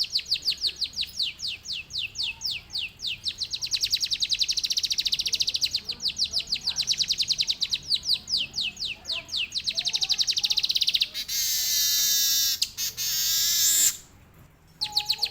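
A manyar (weaver bird) singing canary-style song. It starts with a long run of fast, rapidly repeated high notes, and about eleven seconds in switches to a continuous rolling warble. The song breaks off briefly near the end, then starts again.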